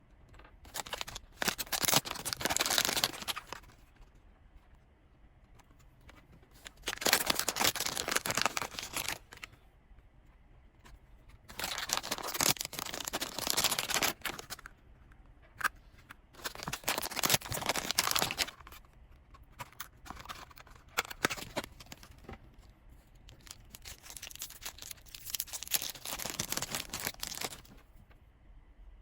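Blind-box packaging being torn open and crinkled by hand, in repeated rustling bursts of two to three seconds with small clicks between.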